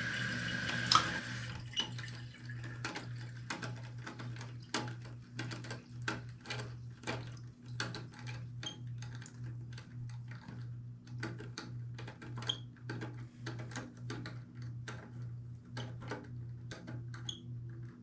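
Water hissing into a toilet tank through the fill valve cuts off about a second in. Then comes a long run of small, irregular plastic clicks as the fill valve's adjustment screw is turned counterclockwise to lower the float and the water line.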